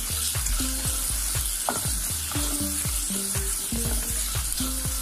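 Sliced onions and garlic sizzling in hot oil in a stainless steel pot while a wooden spatula stirs them. Background music with a run of low notes plays alongside.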